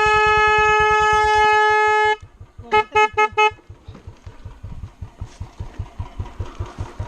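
Vehicle horn held in one long steady blast for about two seconds, then sounded in four quick short toots, a driver's warning or protest. A low rhythmic engine rumble runs underneath.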